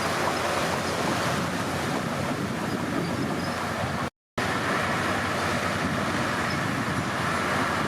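Heavy diesel earthmoving machinery running steadily. The sound cuts out completely for a moment about four seconds in, and afterwards a steady whine sits over the engine noise.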